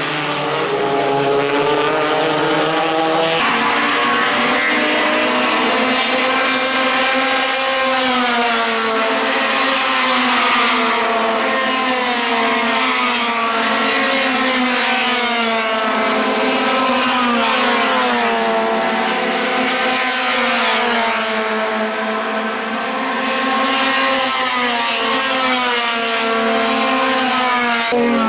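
Race car engine at high revs, its pitch climbing and dropping over and over as it runs through the gears and lifts for corners.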